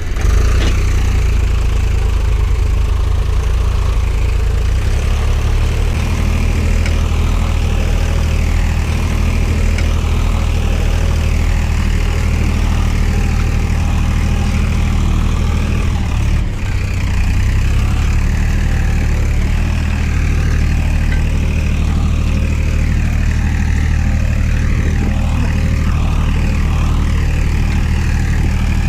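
Tractor engine running steadily at an even speed, a loud low hum; it dips briefly about sixteen seconds in.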